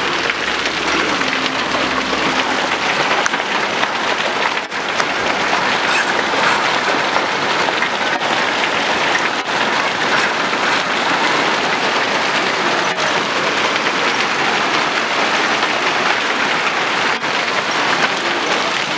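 Hail and rain falling steadily, a dense even patter of many small hits.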